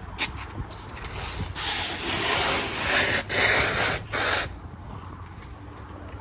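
Plastic stretch wrap being pulled off the roll around a pallet: a loud rasping noise for about three seconds in the middle, broken twice, with lighter rustles and clicks before it. A steady low hum runs underneath.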